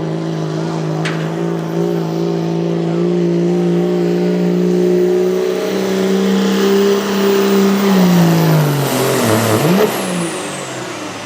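Competition pulling vehicle's engine running flat out under sled load, its pitch holding high and creeping up, then sagging and dropping off about eight seconds in as the run ends. A high whine falls away near the end.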